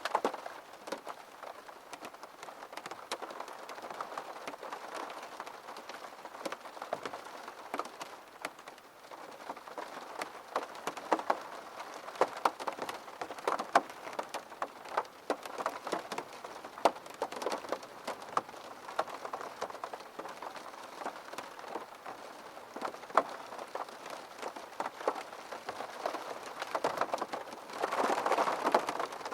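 Rain pattering on a window, a steady hiss with many distinct drop taps, growing denser and louder for a couple of seconds near the end.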